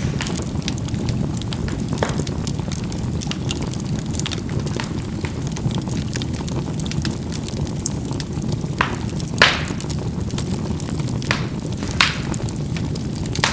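Charcoal burning in a fireplace: a steady low rumble of the fire with scattered sharp crackles and pops as the coals burst, the loudest about two-thirds of the way through and again near the end.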